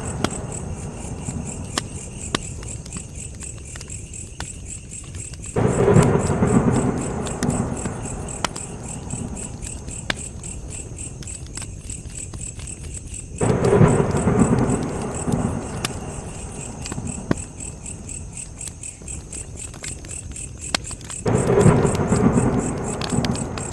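Campfire crackling with scattered sharp pops over a steady high chirping of crickets. Three times, about every eight seconds, a low rumble swells up suddenly and fades over a couple of seconds.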